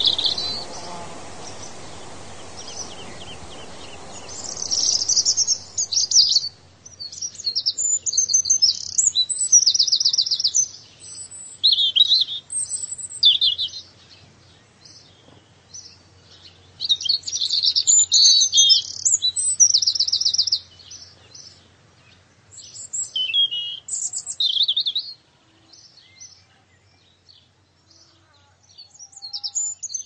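Birds singing in repeated bursts of rapid, high chirps and trills, with short pauses between phrases. A soft rushing hiss lies under the first few seconds and fades away.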